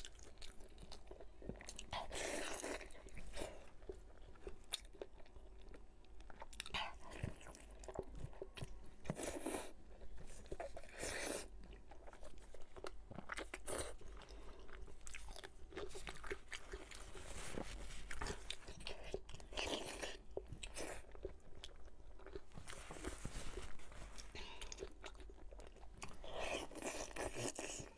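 A person biting and chewing braised pork knuckle skin, in repeated irregular bites and chews.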